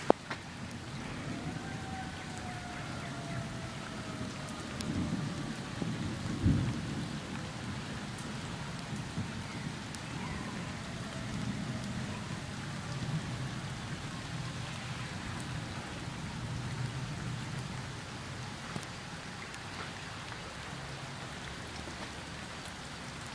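Rain pouring steadily during a thunderstorm, with low thunder rumbling, loudest about six seconds in and again more softly a few seconds later. A faint tone glides slowly downward over the first several seconds.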